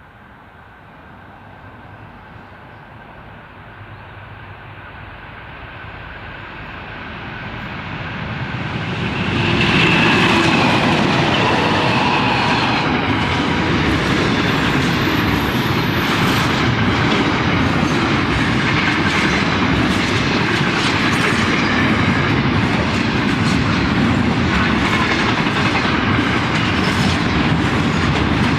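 Diesel-hauled train approaching and growing louder for about ten seconds, then passing close with a steady clatter of wheels over the rail joints.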